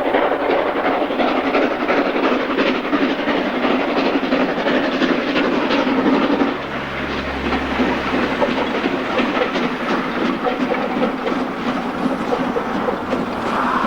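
A train running past on the heritage line, its wheels clattering over the track with a steady rush of noise. A low hum joins for a couple of seconds about halfway through.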